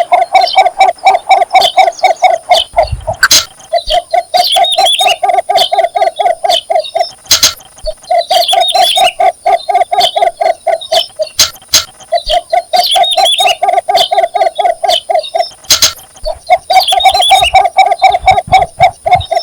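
Cinnamon bittern giving its mate-attracting call: runs of rapid, evenly repeated low notes, each about three seconds long, five times with short pauses between. Fainter, higher-pitched bird calls come in over several of the runs.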